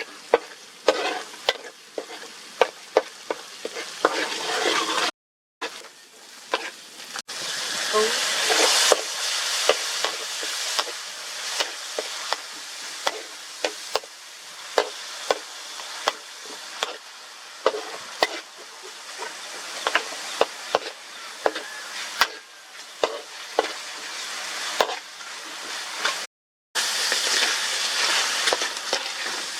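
Crab frying in hot oil in a pan, sizzling steadily while a metal utensil stirs it, with frequent irregular clinks and scrapes against the pan. The sizzle swells louder after two short breaks where the sound cuts out completely.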